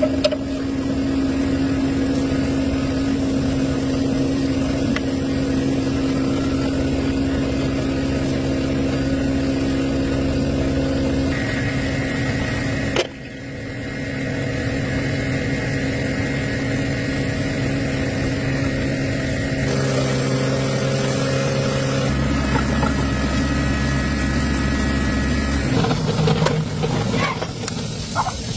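Tractor engine running steadily, heard in several cut segments, with an abrupt change and a sharp click about halfway through.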